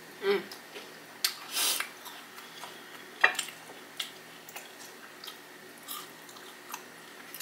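Close-up chewing of a crunchy Flamin' Hot Cheeto–coated fried pickle: a series of short, crisp crunches, the loudest about three seconds in.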